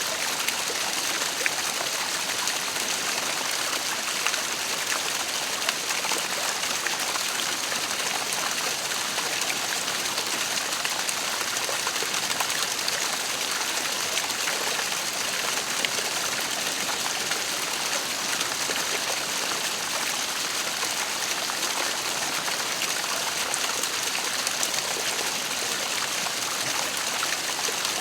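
Waterfall splashing and rushing steadily, a constant hiss of falling water with no breaks.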